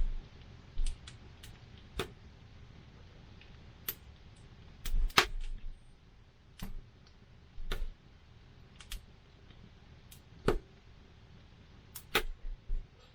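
Wood campfire burning, with irregular sharp crackles and pops a second or more apart; the loudest pops come about five and twelve seconds in.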